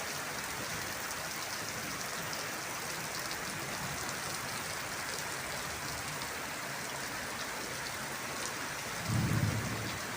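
Heavy rain falling steadily, with a short low rumble about nine seconds in.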